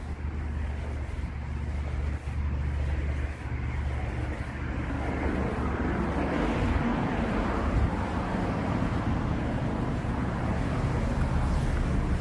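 Street traffic: a steady low rumble of road noise, with a vehicle's passing noise swelling up about four or five seconds in and staying loud to the end.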